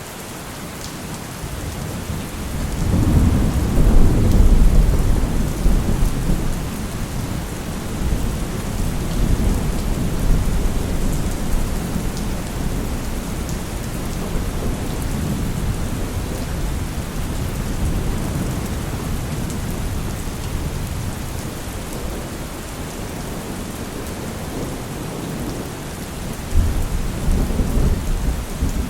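Heavy rain falling steadily, with a long roll of thunder that builds about three seconds in and rumbles on slowly fading, and another rumble starting near the end.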